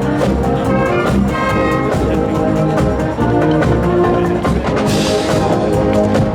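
Marching brass band playing on the move: trumpets and trombones over drums.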